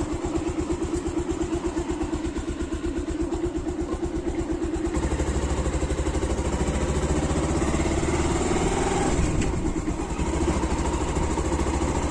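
Motorcycle engine idling with an even putter, then pulling away about five seconds in, its pitch rising as it accelerates while low wind rumble on the phone's own microphone comes in.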